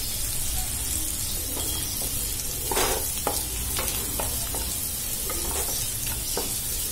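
Oil sizzling steadily as masala-coated baby potatoes shallow-fry on low heat, with a wooden spatula scraping and knocking against the pan a dozen or so times as they are turned, the loudest stroke about three seconds in.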